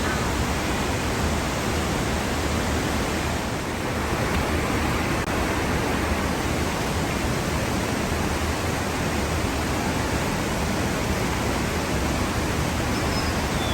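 Steady rush of a waterfall: an even, unbroken wash of falling water.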